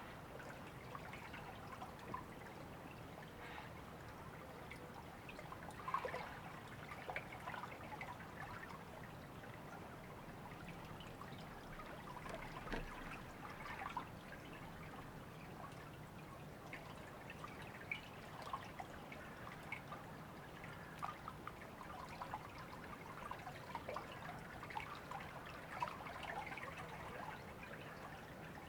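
River water trickling and babbling in a steady flow, with many small splashes and drips.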